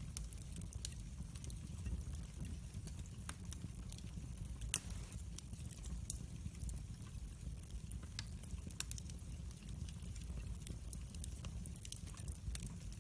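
Wood fire crackling: scattered sharp pops and snaps over a steady low rumble of the flames, with one louder pop just under five seconds in.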